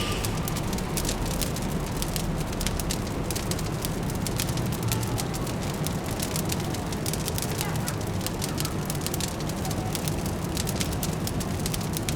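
Wood fire crackling with many small, irregular pops, over a steady low city hum.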